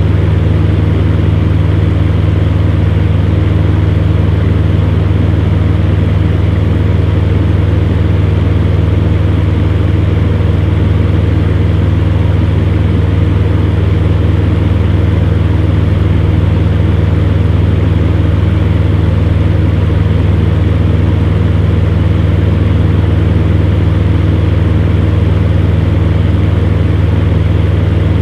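Electric fan heater running steadily: a strong low motor hum under the even rush of blown air.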